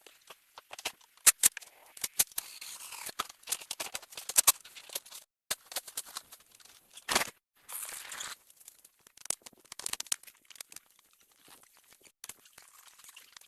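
Irregular sharp cracks and clicks with a few short scraping and tearing noises, from wood and brush being handled and broken by hand.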